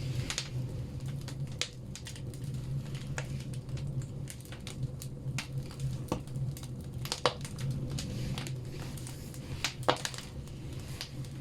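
Firewood logs burning in a wood stove: irregular crackles and sharp pops, a couple of them louder, over a steady low hum.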